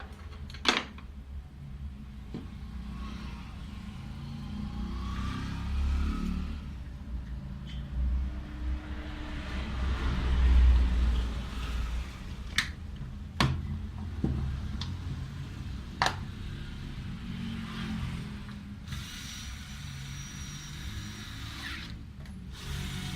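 Workbench sounds of a drill being repaired: a few sharp clicks and knocks of parts and tools being handled, over a steady low rumble.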